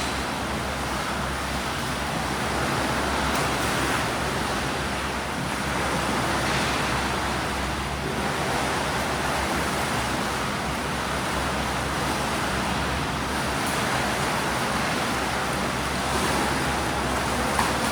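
Swimming pool ambience: a steady wash of water splashing from swimmers, with a constant low hum underneath.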